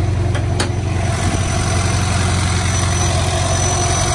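Honda S2000's four-cylinder engine idling high and steady on a catless exhaust, with two short clicks in the first second. The high idle comes from the throttle cable holding the throttle slightly open, about 6%.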